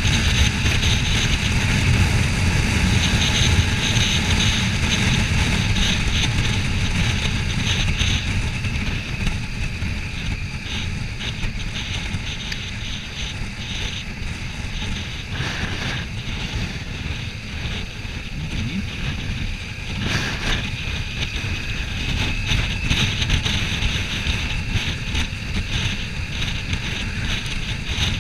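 Heavy wind rush buffeting the microphone of a Kawasaki Ninja 400 at road speed, over the steady drone of its parallel-twin engine.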